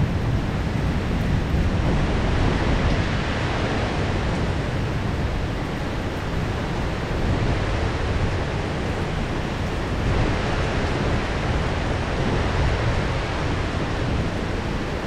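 Heavy rain pouring steadily in a downpour, an even unbroken hiss with no distinct thunderclap.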